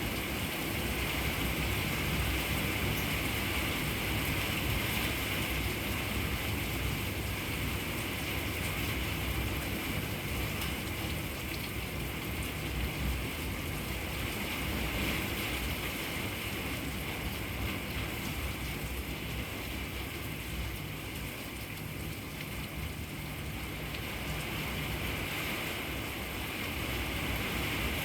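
Steady rain falling, a continuous even hiss, with a low rumble underneath.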